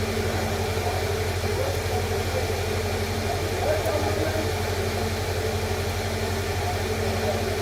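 Steady low mechanical hum with faint, indistinct voices in the background.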